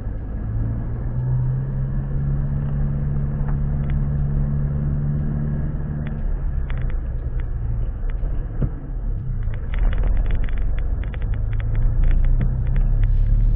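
Motor vehicle running with a steady low rumble and hum. About halfway through, a run of rapid rattling clicks joins it.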